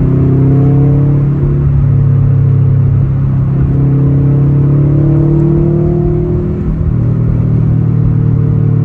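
Turbocharged 2.5-litre flat-four of a 2020 Subaru WRX STI running through a freshly fitted Magnaflow Competition cat-back exhaust, heard inside the cabin with the windows up: a deep, steady drone whose pitch climbs slowly twice as the car pulls. The loudness dips briefly a little past two-thirds of the way through, then the drone holds steady.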